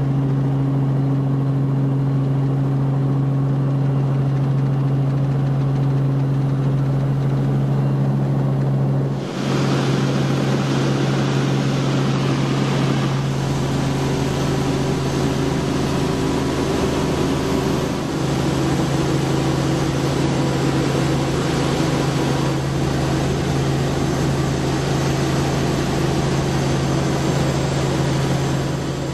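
R44 Raven II helicopter running with a steady, loud drone. The sound changes abruptly about nine seconds in, becoming noisier and fuller.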